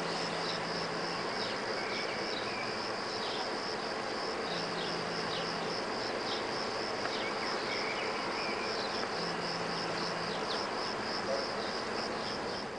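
Insects chirping steadily, a high pulsing cricket-like note with short falling chirps under it. A low hum comes and goes three times.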